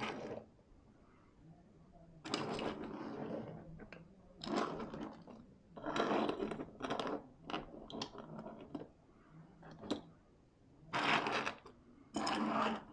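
Small die-cast toy cars rolling and rattling along a plastic track, in a series of short bursts of up to a second each with brief pauses between them.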